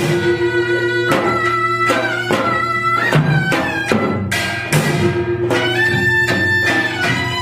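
Korean traditional music accompanying a Jindo drum dance: a reedy double-reed wind instrument holds long, bending notes over a steady pattern of drum strokes.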